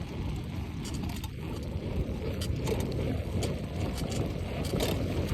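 Wind rumbling over the microphone of a phone carried on a moving bicycle, with a few light clicks and rattles from the bike.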